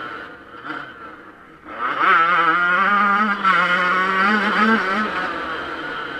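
Yamaha YZ125 two-stroke motocross bike engine, off the throttle and quieter for the first second and a half, then revving hard about two seconds in and held at high revs with a wavering pitch, easing slightly near the end.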